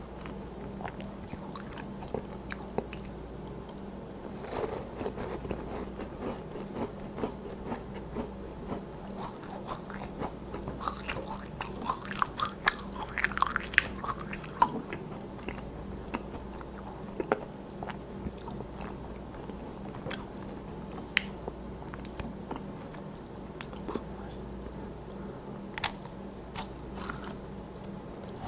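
Close-miked chewing of macarons: many small crisp clicks of the shell breaking between the teeth, with a louder stretch of crunching about halfway through, and a fresh bite into another macaron near the end.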